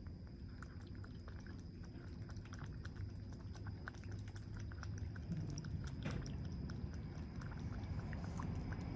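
Kitten's mouth sounds: many small, rapid, irregular wet clicks, as of eating or licking.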